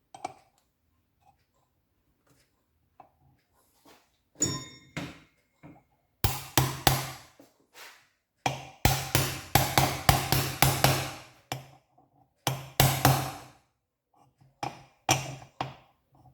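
Repeated rapid hammer taps in several bursts of one to three seconds with pauses between, and a single ringing metallic knock about four seconds in.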